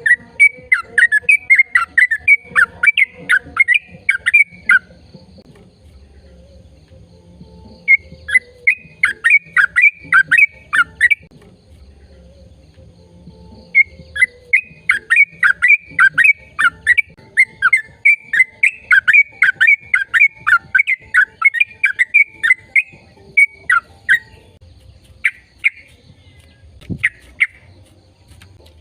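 A bird calling in fast runs of short, sharp notes, about four a second, in three long bouts with pauses between.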